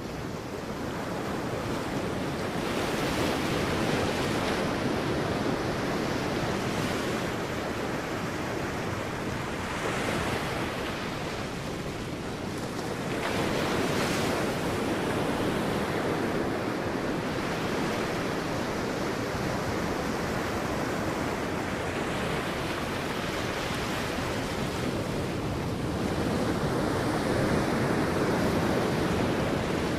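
Sea waves breaking and washing on a beach, a continuous surf rush that swells as each wave comes in, with wind on the microphone.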